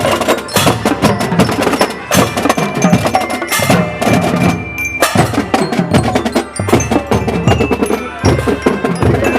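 School marching drum band playing: steady, many-stroke drumming with a pitched melody line carried over it.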